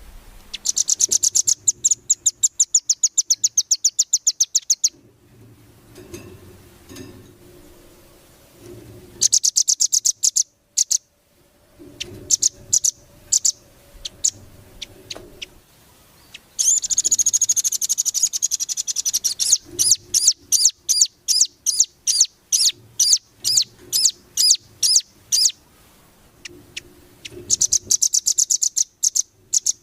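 A small songbird singing high, bright phrases. Fast trills of rapidly repeated notes alternate with slower strings of separate chirps, with a burst of dense warbling about two-thirds of the way through.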